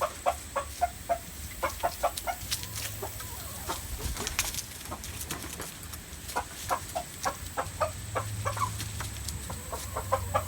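Chickens clucking in quick runs of short repeated notes that come and go, with a few sharp clicks or rustles of handling in between.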